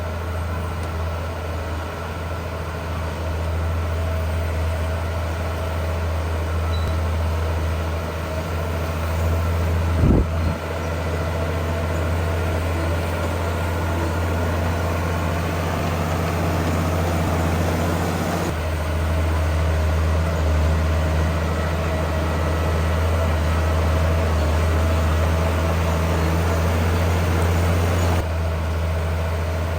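Heavy diesel engines of earthmoving machinery running steadily, with a single sharp knock about ten seconds in. The engine sound changes abruptly twice, about two-thirds of the way through and again near the end.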